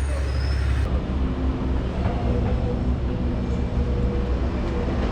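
Steady low rumble of wind on the microphone and city traffic while riding a fixed-gear bike, with a faint steady vehicle engine hum.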